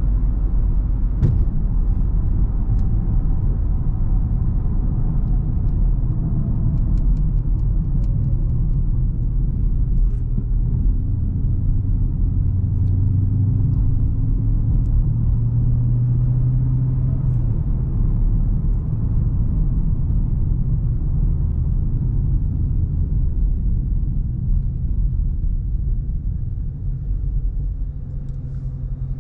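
Dodge Charger R/T's 5.7-litre HEMI V8 running under way, a steady low rumble with road noise; the engine note rises and eases again between about ten and eighteen seconds in, and the sound gets a little quieter near the end.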